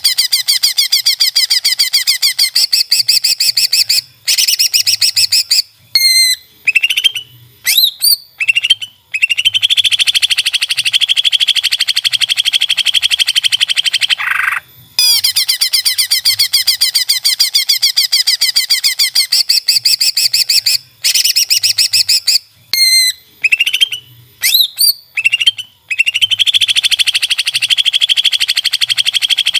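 Greater green leafbird (cucak ijo) song from a looped training recording. Long fast rattling trills alternate with short, sharp rising whistles, and the same run of phrases comes round again about every 17 seconds.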